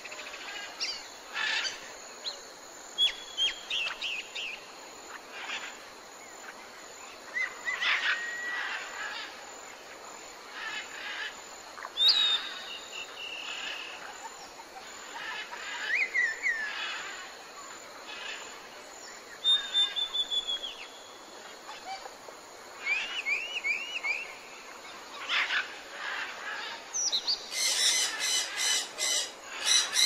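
Mixed wild birdsong: several birds giving varied chirps, falling whistles and short trills, one after another. Near the end comes a run of rapid, harsh repeated calls.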